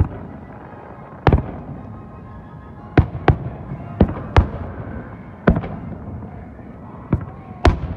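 Aerial fireworks shells bursting overhead: a series of about eight sharp booms, several coming in quick pairs, each followed by a short echoing tail.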